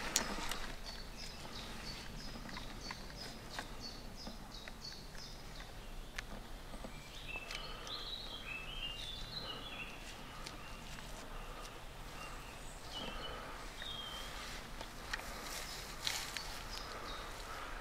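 Wild birds singing: a quick run of short, high repeated notes, then a warbling phrase of falling notes about seven seconds in and a few brief notes later. A few soft clicks near the end.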